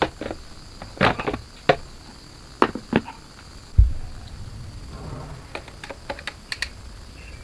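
Irregular sharp clicks and taps, with one dull low thump about four seconds in.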